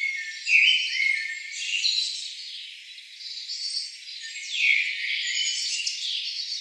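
A chorus of high-pitched chirping and trilling calls, several voices overlapping, with short sliding notes and a few louder chirps.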